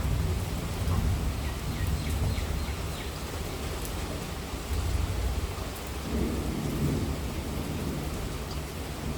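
Heavy monsoon rain falling steadily, with a continuous low rumble of thunder underneath and scattered drop ticks on top.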